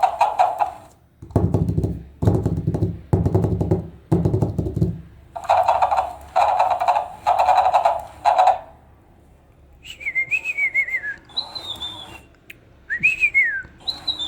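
Electronic toy sound effects from a small speaker: a run of short buzzy tones about a second apart, then warbling, whistle-like chirps that glide up and down over the last few seconds.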